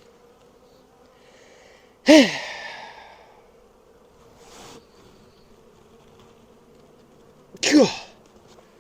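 Honey bees humming steadily from an open hive, with a man's strained, falling sighs twice, about two seconds in and near the end, as he struggles to pry out propolis-stuck frames.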